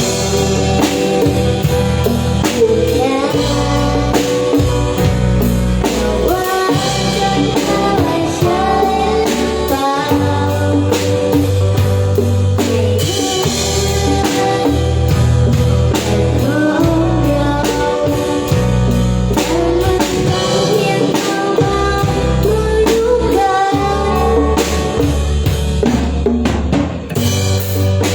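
A band playing live: drum kit with bass drum and snare, bass and a sung melody, going steadily throughout.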